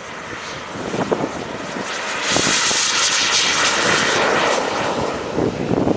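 Turbine engine of an RC model jet, a loud rushing hiss that grows louder over the first couple of seconds and peaks in the middle as the jet passes close.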